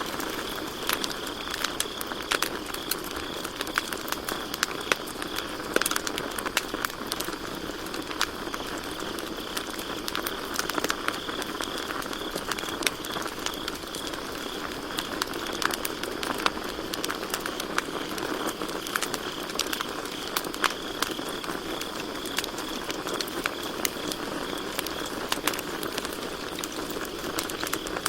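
Wood campfire crackling, with frequent sharp pops and snaps over a steady hiss of burning. Crickets chirp in a fast, high pulsing trill, strongest in the first few seconds and again from about 16 to 24 seconds in.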